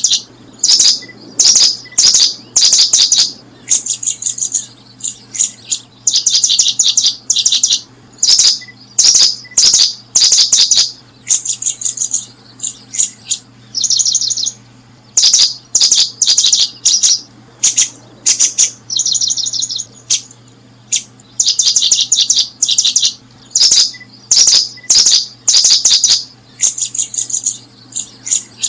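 Small birds chirping in loud, high, rapid trilled bursts of about half a second to a second each, repeating with short gaps, over a faint low hum.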